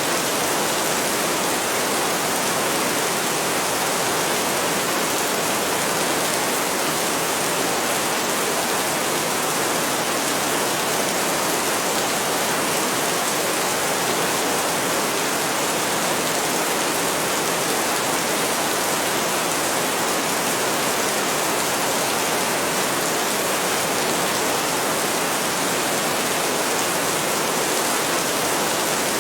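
Heavy rain falling in a steady, even hiss, with no breaks or separate events.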